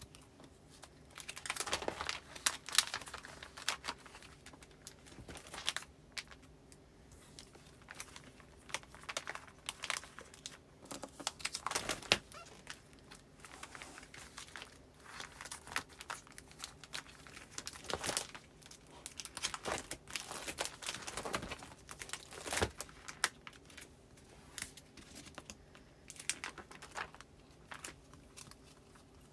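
Postcards and other paper goods being handled and filed into a binder's file pockets: crinkling of paper and plastic sleeves in irregular bursts, with small clicks of handling.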